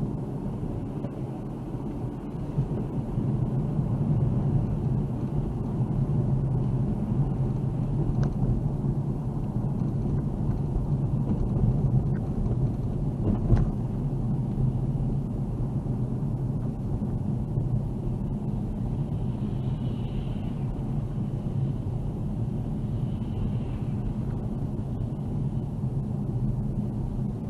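Car being driven: a steady low rumble of engine and tyres on the road, with two short sharp knocks, the second about halfway through.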